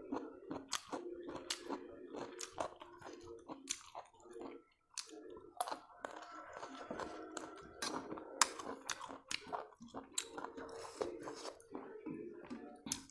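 Close-up chewing of rice and soup, with many short sharp clicks and smacks, while fingers mix rice into soup on a steel plate.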